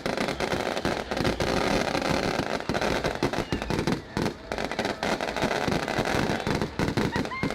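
Fireworks display: a dense, continuous barrage of rapid cracks and bangs, with a few faint whistles near the end.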